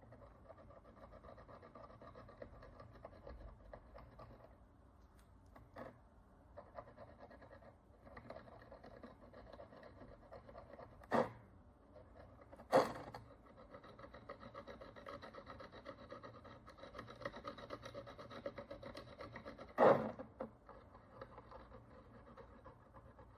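Steady rubbing and scraping on an ancient bronze coin as it is cleaned by hand, with a few sharp knocks, the loudest about eleven, thirteen and twenty seconds in.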